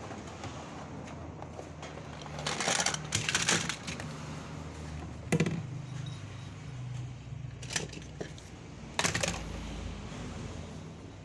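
Toy pieces being handled, clicking and clattering against each other: a burst of rattling about two and a half to three and a half seconds in, then single sharp clacks about five, eight and nine seconds in, over a steady low hum.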